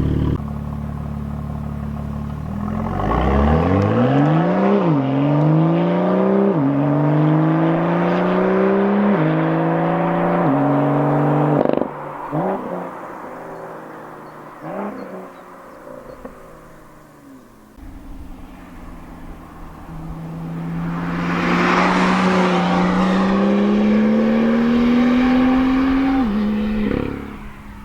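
BMW M2's 3-litre turbocharged inline-six with an M Performance exhaust accelerating hard: its pitch climbs and drops back at four quick double-clutch upshifts. Near the middle it lifts off, with a few sharp exhaust cracks and downshift blips as it slows. It then makes a second long pull in one gear, rising steadily until it cuts off near the end.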